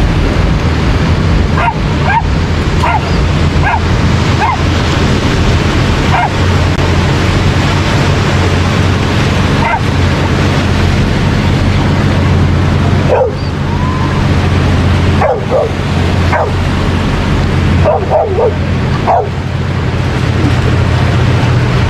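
Dogs barking and yipping in short, scattered calls, with a few in quick succession, over a steady roar of surf and wind.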